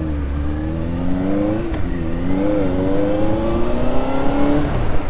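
Benelli TNT 600i's 600cc inline-four engine pulling under acceleration, its pitch climbing, dipping at a gear change about two seconds in, then climbing again before the revs drop near the end. Wind rumbles on the microphone underneath.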